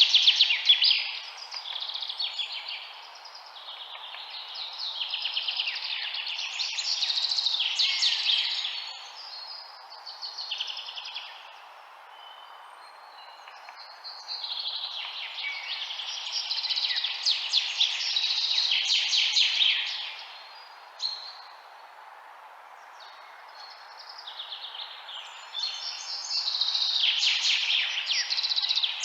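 Small birds chirping in quick, busy bouts a few seconds long, with short lulls between them, over a steady soft hiss.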